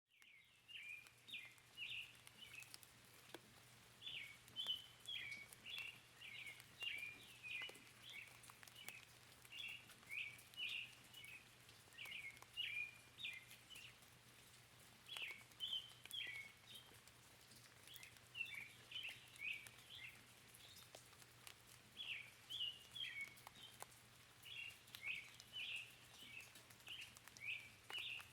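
Small birds chirping in quick runs of short high notes, phrase after phrase, over a faint steady hiss of rain with scattered light drip ticks.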